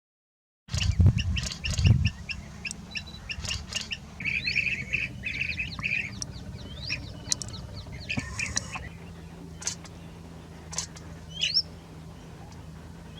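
Blue-tailed bee-eaters calling: many short chirps and gliding, trilling notes, busiest in the first half, over a steady low rumble. There is a split second of silence at the start, and two low thumps about one and two seconds in.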